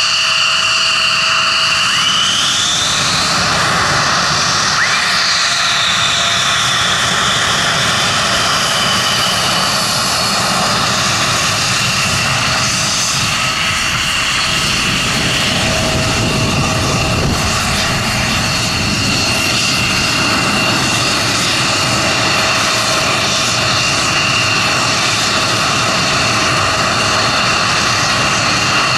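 F-16 Fighting Falcon jet running loud and steady during a display flypast, with a high turbine whine that rises in pitch about two seconds in and falls again a few seconds later.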